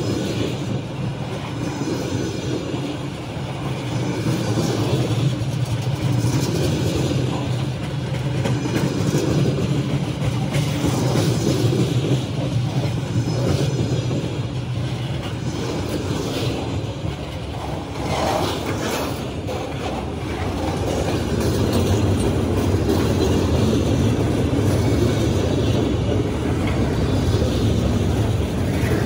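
CSX freight train's cars rolling past, covered hoppers and then boxcars: a steady rumble and rattle of steel wheels on the rails.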